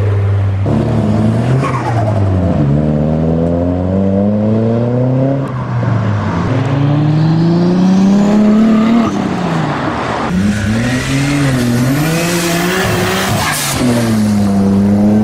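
Several turbocharged performance cars, among them a Ford Focus RS, a Toyota Supra and a Nissan Skyline R33 GT-R, accelerating hard away one after another. Each engine note climbs steeply through the revs and drops back at the gear changes, with a high whistle rising in pitch through the middle.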